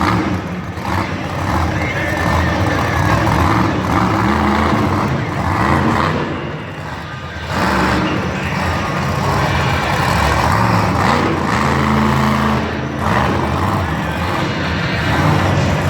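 Monster truck engine running loud and revving, easing off briefly about six seconds in before picking up again.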